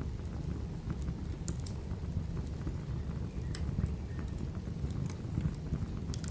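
Wood fire crackling over a steady low rumble, with a handful of sharp, irregular pops.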